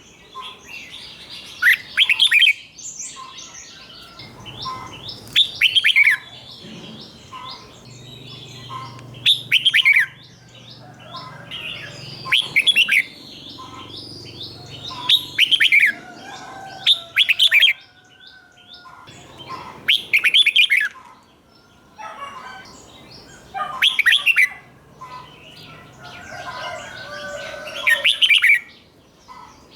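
Red-whiskered bulbul singing: a loud, short phrase of quick notes about every three seconds, with quieter chirps in between.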